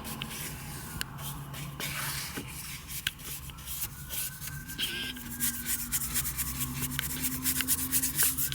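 Irregular rubbing and scrubbing strokes on a car's surface, with quick scraping sounds one after another as a brush or cloth works the wax over the paint.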